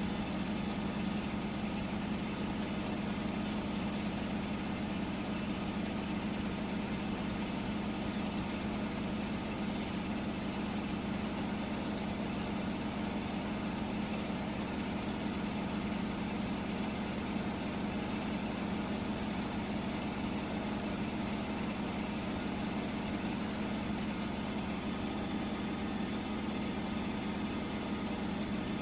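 Hotpoint washing machine spinning at the end of its cycle, with a steady, even hum and no change throughout.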